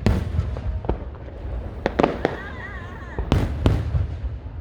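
Aerial fireworks bursting: a quick irregular string of sharp bangs, each with an echoing tail, with the loudest ones right at the start, around two seconds in and in the second half.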